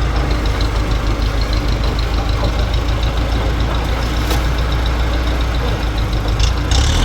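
An engine running steadily at a constant speed, with a fast even ticking over a low rumble. A single sharp click comes about four seconds in, and a short higher hiss comes near the end.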